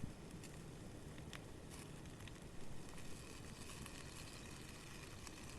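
Small campfire crackling faintly, with a few scattered small pops, under a pan of vegetables frying in oil, over a low steady rumble.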